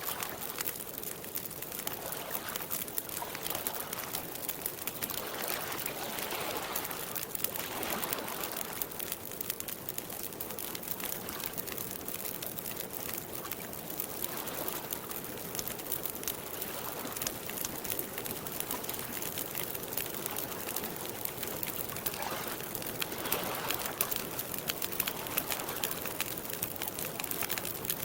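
Wood campfire crackling with many small pops, over soft swells of water lapping at a lakeshore every few seconds.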